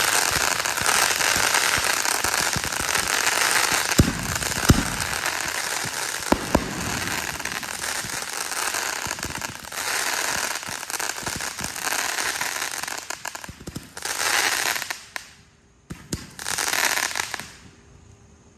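Consumer fireworks going off: a dense, continuous crackle with a few sharper bangs about 4 and 6.5 seconds in. It dies down after about 14 seconds into two last short bursts.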